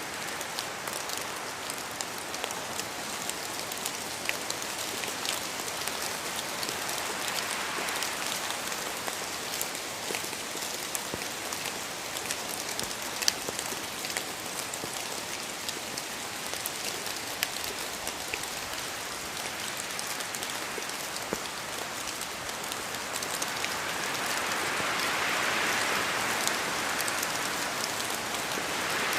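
Steady rain in a forest, with many separate drops falling from the trees and hitting leaves over a continuous rush. The rush swells louder in the last few seconds.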